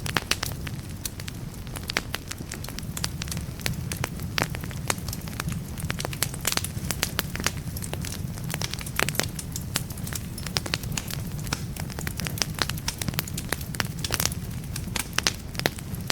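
Wood fire burning in a fireplace, crackling with frequent irregular sharp snaps and pops over a steady low sound of the flames.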